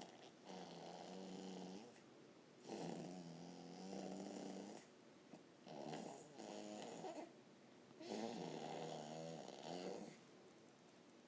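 A person making silly vocal noises: four drawn-out, pitched sounds, each lasting one to two seconds, with short pauses between them.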